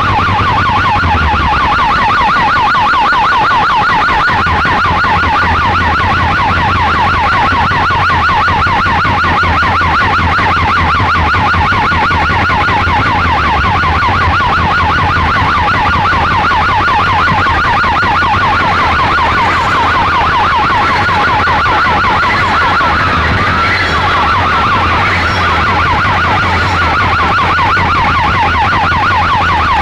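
Fast-warbling siren sound played very loud through a DJ sound system over a steady deep bass tone, without a break.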